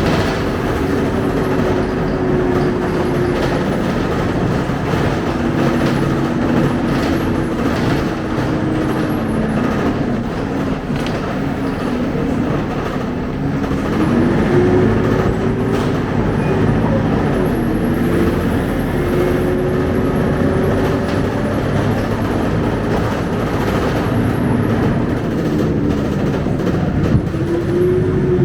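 Scania K270UB city bus under way: the diesel engine and driveline hum, their pitch rising and falling with speed, over a steady rumble of road noise.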